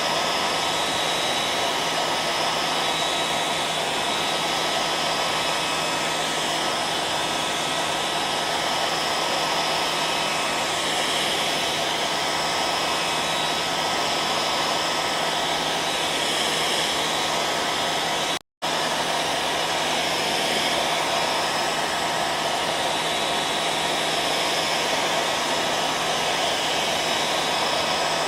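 Hair dryer running steadily: a continuous rush of blown air over a steady motor whine. It cuts out for an instant about two-thirds of the way through, then carries on unchanged.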